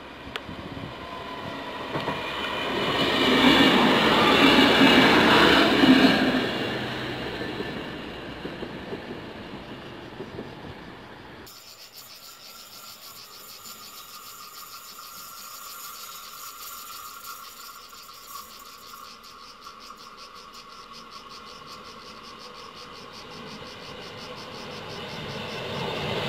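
A train passing on the line, growing loud and peaking about three to six seconds in, then fading away. After an abrupt change it is quieter, with a steady high rhythmic chirring. Near the end the rumble of another train builds.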